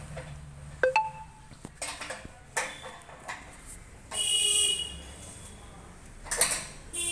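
Metal parts and tools clanking and scraping while a front-load washing machine's drum assembly is taken apart. There are a few sharp knocks, one ringing briefly about a second in, and a louder rasping, ringing scrape a little after four seconds, with more clanks near the end.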